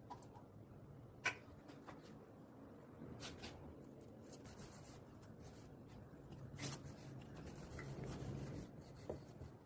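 Faint rubbing and scraping of food and utensils being handled while cooking, with a few light clicks and taps.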